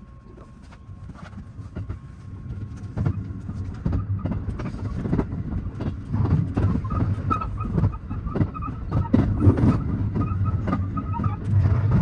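223 series 2000 subseries electric multiple unit pulling away and gathering speed, its wheels clacking over points and rail joints with a rapid run of clicks over a low rumble that grows steadily louder.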